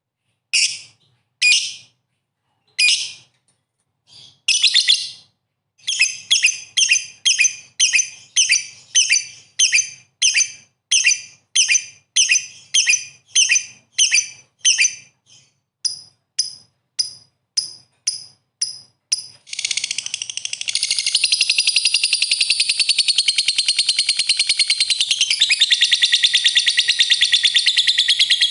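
Lovebird calling: sharp high chirps, spaced out at first, then coming about two a second, breaking into a long continuous rapid chattering trill about twenty seconds in.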